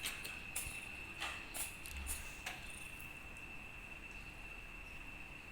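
A cricket trills steadily in one high, unbroken tone. A few soft clicks and rustles come in the first two and a half seconds.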